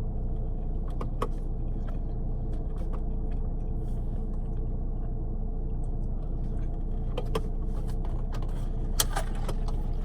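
Steady low rumble of a car engine idling, heard from inside the cabin, with scattered small clicks and rustles and a sharper click about nine seconds in.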